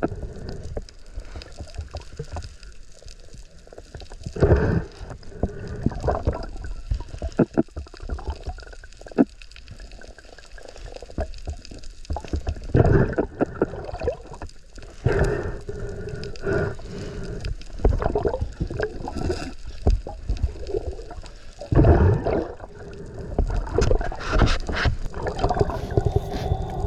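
Muffled water sloshing and gurgling around a camera at and under the sea surface during a spearfishing dive, with irregular surges and short knocks.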